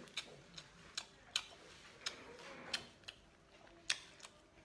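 Close-miked chewing of a roe-filled baby octopus head: a faint run of sharp, wet mouth clicks and smacks at uneven spacing, about eight in all.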